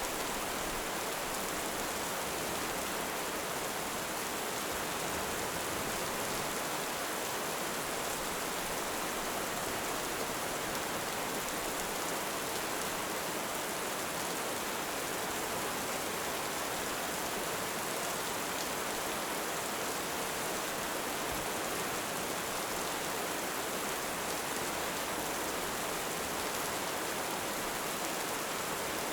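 Steady heavy rain, an even hiss that holds level throughout with no thunder.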